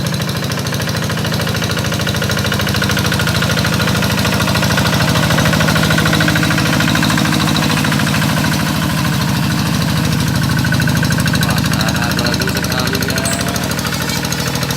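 Rice-paddy plowing tractor's engine running steadily under load, with a rapid, even knocking chug as it works the field.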